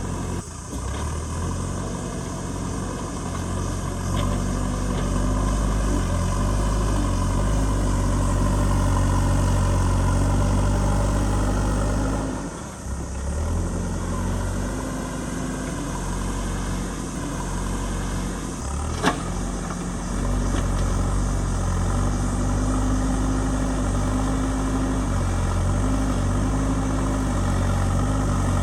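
JCB backhoe loader's diesel engine running steadily, its drone swelling and easing as the load changes and dipping briefly a little under halfway. A single sharp knock about two-thirds of the way through.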